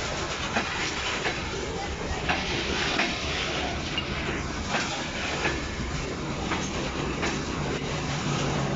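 Train rolling past, its wheels clicking over rail joints every half second to second over a steady rumble; a low steady drone grows stronger near the end.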